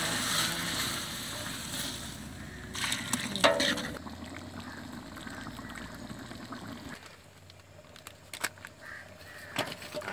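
Sliced onions and spices sizzling in a large aluminium pot as they are stirred with a metal ladle. The sizzle fades over the first few seconds, and the ladle knocks and rings against the pot a few times about three seconds in. A few faint clicks follow near the end.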